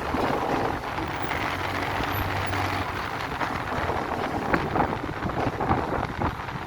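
Road traffic noise, cars and trucks passing, steady throughout, with a few short knocks in the second half.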